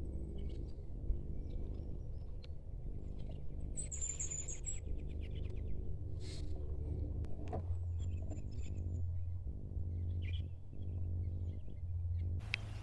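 Wild birds chirping over a steady low hum, with short high chirps about four seconds in and again near eight seconds.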